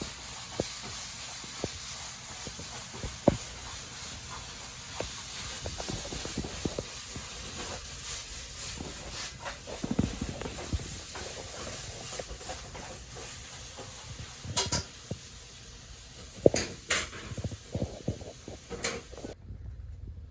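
Hands-on food-preparation work: scattered light knocks and clicks over a steady high hiss, with a run of louder knocks near the end. The hiss cuts off suddenly shortly before the end.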